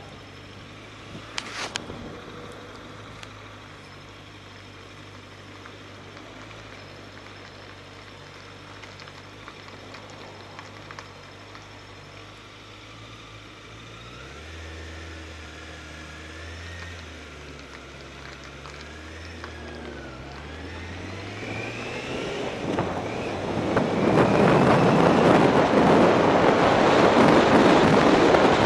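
Motorcycle engine idling steadily, then revving with rising pitch as it pulls away about three-quarters through. After that, wind rushing over the helmet-mounted microphone becomes the loudest sound. A sharp click sounds near the start.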